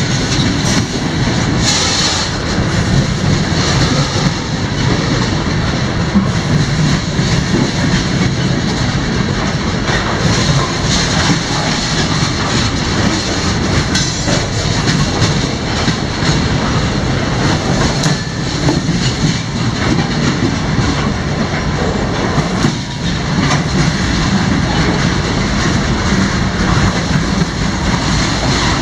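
Freight cars of a CSX manifest train rolling past: a loud, steady rumble of steel wheels on rail, with scattered clicks.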